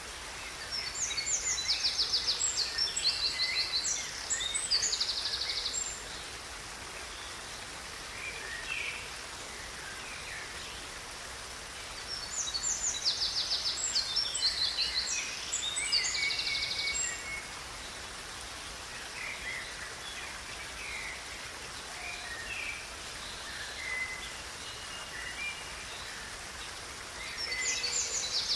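Songbird singing a fast, high trilled song over the steady rush of a river. The song comes three times, about a second in, around twelve seconds in and near the end, with softer scattered chirps between.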